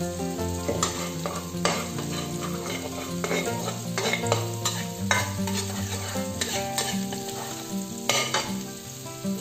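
Spice paste sizzling in hot oil in a wok while a spatula stirs and scrapes it around the pan, with irregular scraping strokes every second or so.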